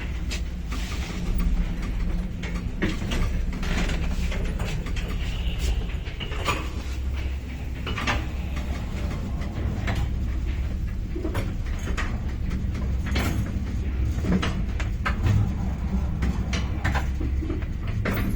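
Soviet 1978 MOELZ passenger lift car riding: a steady low hum with many creaks, clicks, knocks and short squeaks from the old car, including one brief high squeal about five seconds in.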